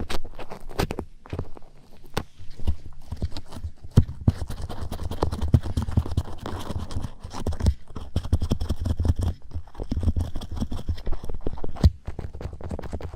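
Close-up ear-cleaning ASMR: a daruma ear tool rubbing, scratching and lightly tapping against a microphone's ear. The rustling is dense and irregular, with frequent small knocks and a low rumble of handling.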